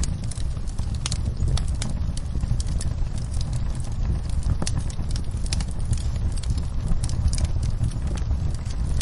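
Wood fire in a fireplace crackling: irregular sharp pops and snaps over a steady low roar of the flames.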